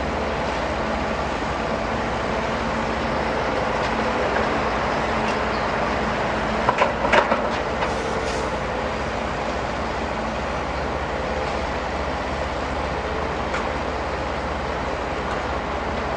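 Heavy diesel machinery running steadily with a low hum, and a quick cluster of loud knocks about seven seconds in.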